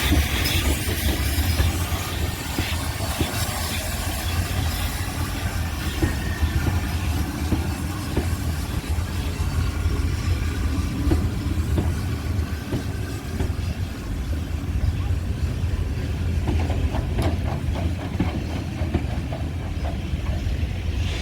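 GWR 5205-class 2-8-0 tank steam locomotive 5239 Goliath and its coaches running into a station. Wheels click over rail joints and steam hisses above a steady low rumble.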